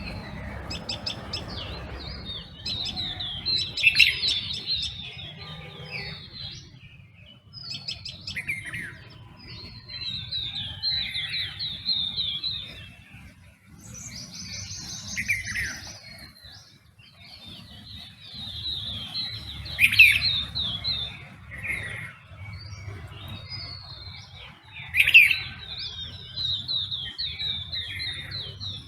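Dawn chorus of several birds chirping and singing in short overlapping phrases, with a faint steady low rumble underneath.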